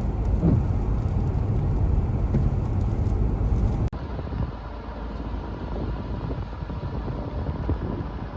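Outdoor street recording of vehicle rumble, with low wind noise on the microphone. About four seconds in it cuts abruptly to a quieter outdoor recording with a faint steady hum.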